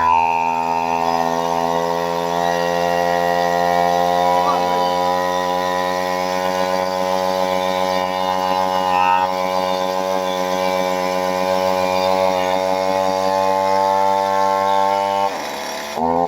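Craftsman 36 cc two-stroke chainsaw engine running at a steady speed with a slight waver, then cutting out sharply near the end and catching again in a few brief sputters.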